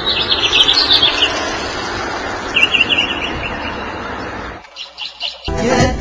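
Small birds chirping in quick high trills over a steady outdoor rush of noise. The sound drops away about four and a half seconds in, leaving only faint chirps, and music with a beat starts near the end.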